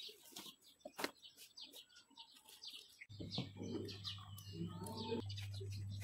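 Birds chirping in the background, with a few faint clicks. About three seconds in, a steady low hum starts abruptly and runs on under the chirping.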